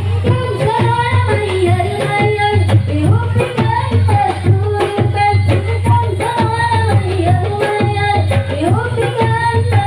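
Marawis ensemble music: hand drums beating a busy rhythm under a sung melody.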